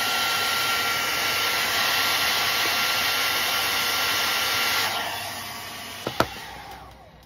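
A small electric blower running steadily with a faint high whine. It is switched off about five seconds in and winds down over a couple of seconds, then two sharp clicks follow.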